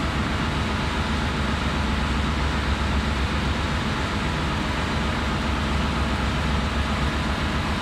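Steady ship's engine-room machinery noise: a continuous drone with a strong low hum and no separate knocks or clicks.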